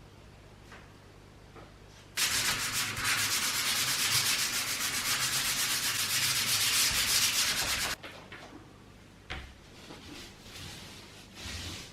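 Sanding of dried gypsum filler over screw heads on gypsum board: a loud, dense rubbing hiss that starts about two seconds in and stops abruptly about six seconds later.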